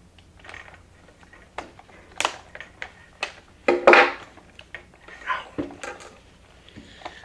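Hands and pliers working apart the plastic internal mechanism of an animatronic Elmo doll: scattered clicks, scrapes and creaks of plastic parts, with a few louder scraping handling noises.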